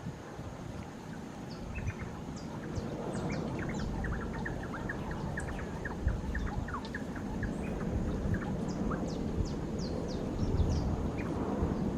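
Small birds chirping: many short, quick chirps, thickest in the middle of the stretch, over a low background rumble that builds after the first few seconds.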